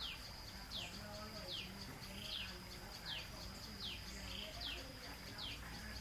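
A bird calling over and over: a quick downward chirp about once a second, over a steady thin high-pitched tone.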